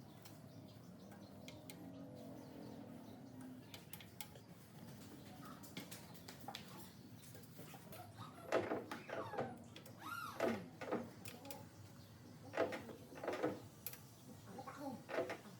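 Hand work on a metal machine part: short, irregular scraping and squeaking strokes that start about halfway through, over a faint steady low hum.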